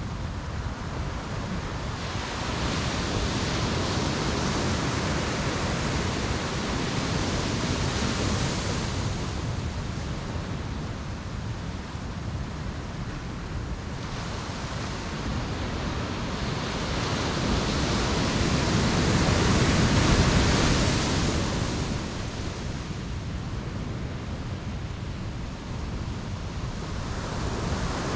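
Ocean surf breaking and washing up a beach. The rush of water swells twice, a few seconds in and again about two-thirds of the way through, where it is loudest.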